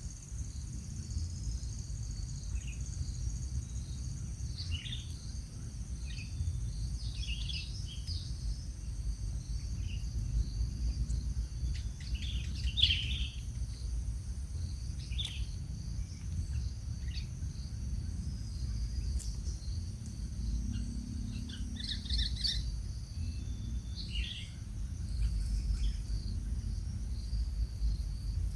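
Outdoor ambience: a steady high insect drone and scattered short bird chirps over a low rumble.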